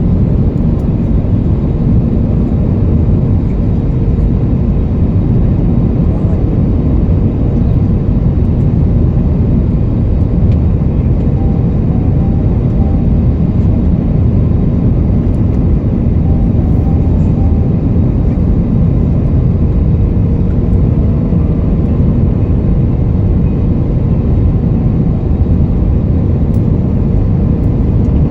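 Steady cabin noise inside an Airbus A320neo on approach: a constant rush of airflow and engine rumble, with a faint steady hum.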